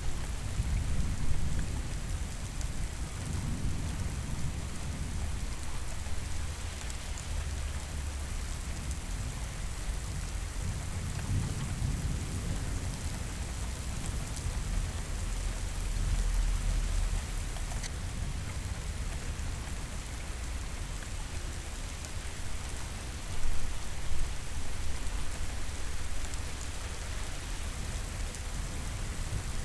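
Steady heavy rain with low thunder rumbling in the distance, swelling and fading several times, loudest about two-thirds of the way through.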